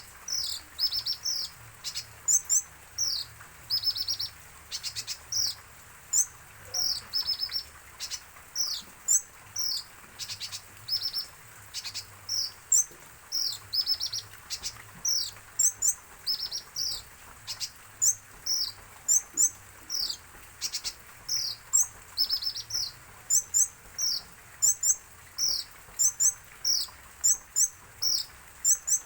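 Kolibri ninja, a kept sunbird, singing: an unbroken run of sharp, high, downward-slurred chirps, several a second.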